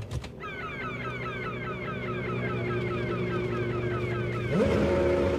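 Formula One car engine running at a steady pitch, with a rapid series of high falling chirps repeating about five times a second. Near the end the engine revs up sharply and grows louder.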